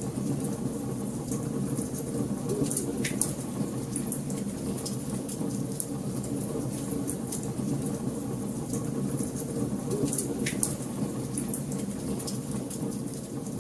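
Wood fire in a fireplace crackling: a steady low rumble of burning with frequent small snaps and pops, two sharper pops about three seconds in and again near ten seconds.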